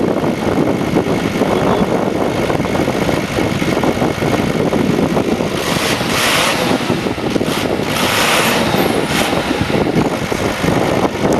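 VW Touareg's 5-litre V10 turbodiesel idling steadily, with brief noises about six and eight seconds in.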